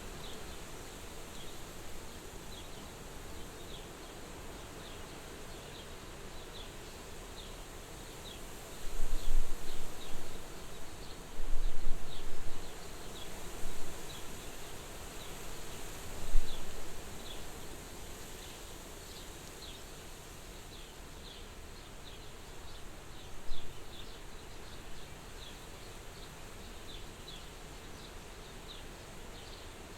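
Soft wind at a window, a steady hiss, with several strong gusts rumbling on the microphone in the middle and one more later on. Short high chirps repeat throughout, one or two a second.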